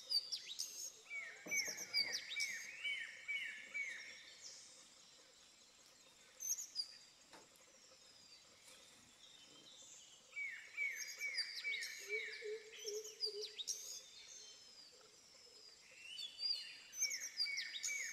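Birds calling over faint outdoor background: several overlapping songs, including three runs of quick repeated chirps, about six notes a second, and higher twittering calls.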